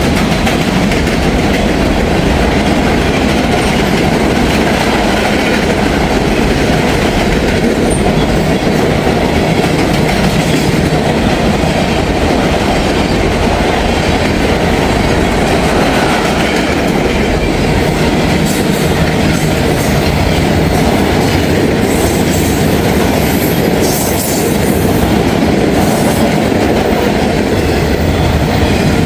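Mixed manifest freight train's cars rolling past close by: a loud, steady rumble of wheels on rail that holds throughout, with some higher hiss and screech in the second half.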